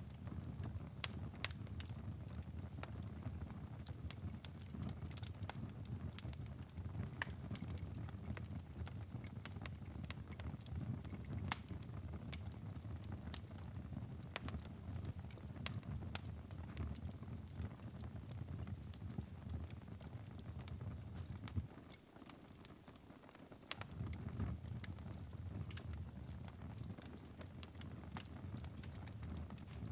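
Wood fire burning in a fireplace: a steady low rumble of flames with frequent irregular crackles and sharp pops. The low rumble drops away for a couple of seconds about twenty-two seconds in while the crackling goes on.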